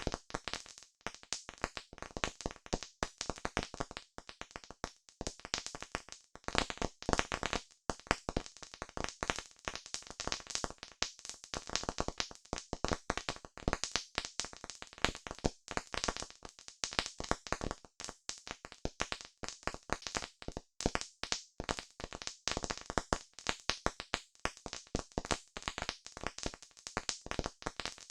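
Wood campfire crackling: a dense, irregular stream of sharp pops and snaps with no steady rhythm.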